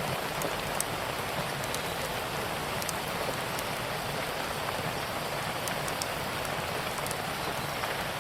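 Steady, even rain, with scattered small sharp crackles of a wood fire.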